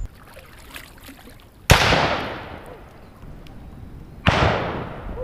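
Two gunshots about two and a half seconds apart, real close, each ringing out in an echo that fades over about a second: hunters firing near the river bank.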